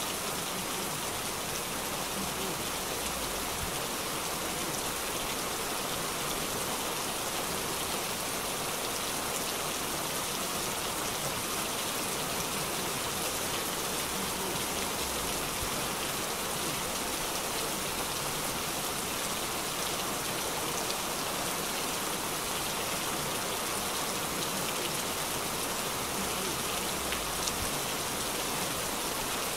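Heavy rain pouring steadily onto a wet street and pavement.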